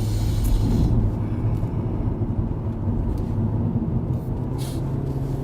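Hyundai Avante (CN7) 1.6-litre four-cylinder engine heard from inside the cabin, held at high revs by its CVT as the car accelerates to overtake. It is a steady, strained mechanical hum with road and tyre noise, loudest in the first second.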